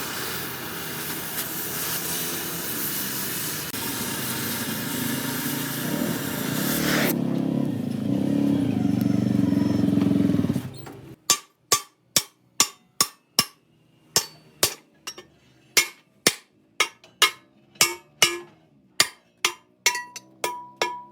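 A loud, steady hiss that cuts off about eleven seconds in. Then a hammer strikes steel, on a truck wheel rim being repaired, about two blows a second, each blow ringing.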